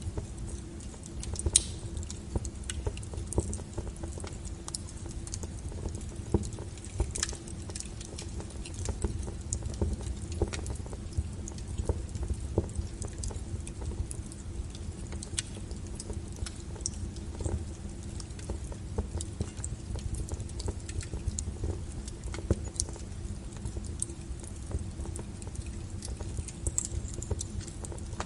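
Wood fire burning: frequent sharp crackles and pops from the burning logs over a steady low rumble of the flames.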